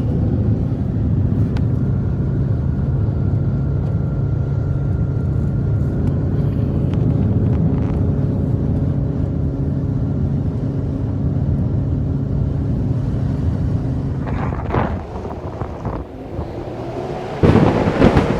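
A motor runs steadily with an even hum and dies away about three-quarters of the way through. Two loud rushing surges follow, the louder one near the end.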